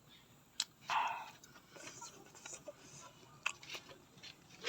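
Biting into crisp raw vegetables: a sharp snap, then a loud crunchy bite about a second in, followed by irregular crunching chews and another snap past three seconds.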